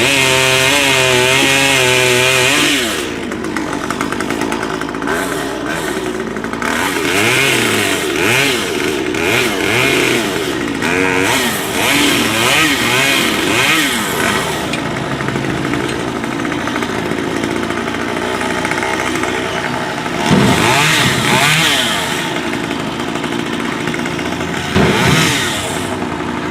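Stihl two-stroke chainsaw held at full throttle for the first couple of seconds, then its pitch dipping and recovering over and over as it works through a cut in a tree. It revs up high again about twenty seconds in and once more near the end.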